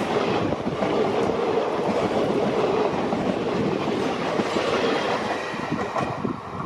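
Train running on rails: a steady rumble of wheels on track with clickety-clack over the rail joints.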